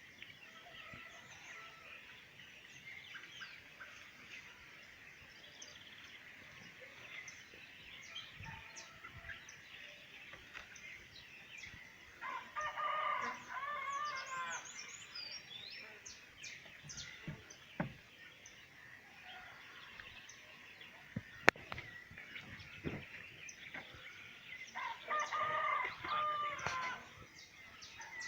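A rooster crowing twice, about twelve seconds apart, each crow lasting about two seconds, over a faint steady high-pitched background. There is a single sharp click about two-thirds of the way through.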